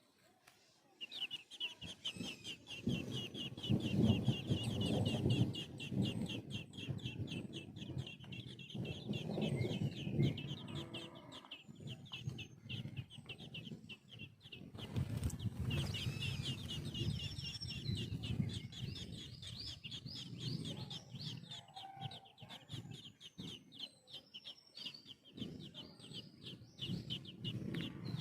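Nestling birds' rapid, high-pitched chirping, begging calls while a parent bird feeds them, over an uneven low rumbling noise.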